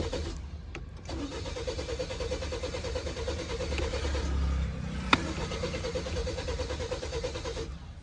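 Car engine cranking on the starter motor in a hard start that does not catch, with a steady pulsing churn. It breaks off briefly near the start, picks up again about a second in, and stops shortly before the end, with a single sharp click about five seconds in.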